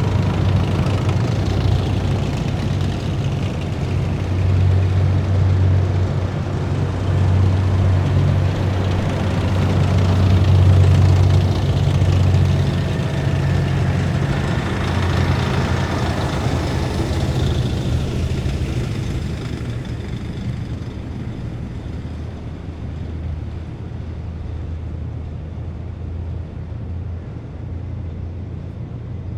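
Heavy military vehicles with diesel engines driving past in a column, a deep steady engine drone with road noise. It is loudest around the middle and dies down over the last third as they move off.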